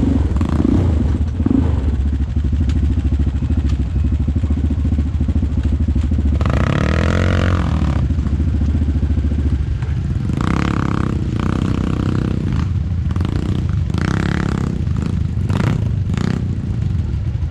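ATV engine running steadily while riding, with one rise and fall in pitch around the middle and a few short louder surges in the second half.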